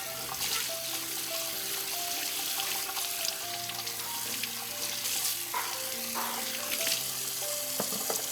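Water running from a kitchen tap and splashing as a glass microwave turntable is washed and rinsed, with a few light clatters. A slow melody of held notes plays in the background.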